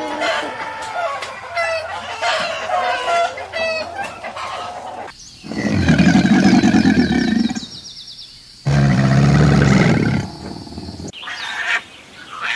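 Chickens clucking and chirping in a run of short calls, followed by two loud, long, low-pitched animal calls that start and stop abruptly, then more short chirps.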